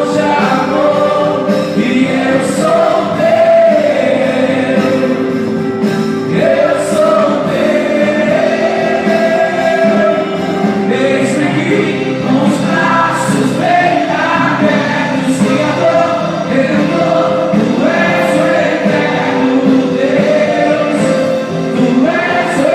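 Gospel worship music: voices singing together over a band, with regular cymbal strikes.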